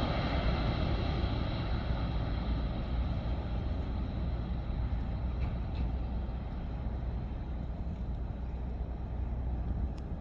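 Jet airliner's engines heard as a low rumble with faint steady whine tones, slowly fading away. A small click near the end.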